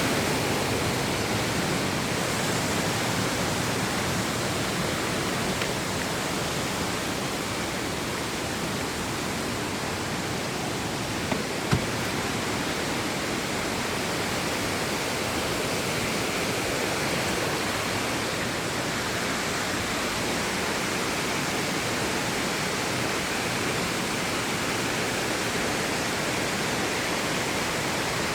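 Waterfall: a steady, even rush of falling water, with one brief click about twelve seconds in.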